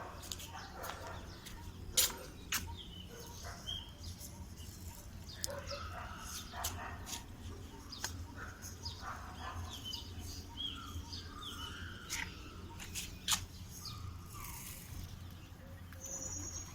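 Small birds chirping and calling repeatedly, with scattered sharp clicks over a steady low hum.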